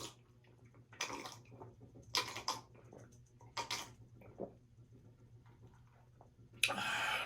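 Someone drinking a cold Arnold Palmer: a few short sips and slurps, then a longer, louder slurp near the end.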